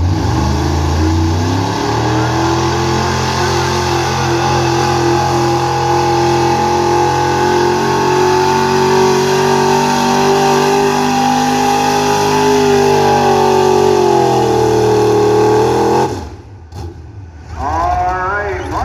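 Gas-engined street pickup truck pulling the sled at full throttle: the engine climbs to high revs in the first second or two and holds a steady drone for about fourteen seconds, its pitch rising a little just before it cuts off abruptly about sixteen seconds in.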